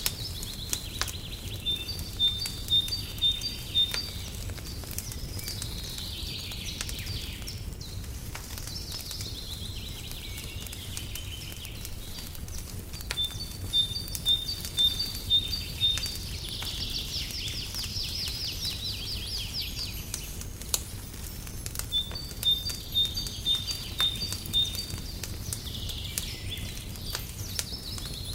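Songbird singing: a run of short, clear repeated notes about every nine seconds, with warbling phrases between, over crackling from a wood fire in a fireplace and a steady low rumble.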